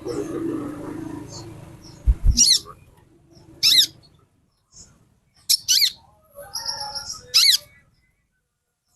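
Female sunbird calling: a handful of sharp, high chirps that fall quickly in pitch, spaced a second or two apart, with a few softer high notes between them.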